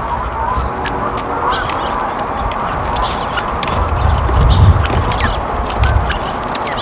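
A crowd of wild birds calling at once: many short, high chirps over dense background chatter. A low rumble comes about four to six seconds in.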